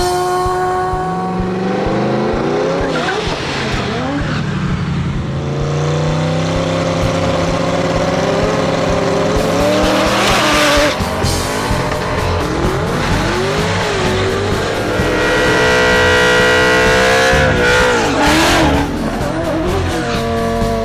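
Muscle car engines revving up and down at a drag strip, with tire squeal in noisy stretches about halfway through and near the end. Background music runs underneath.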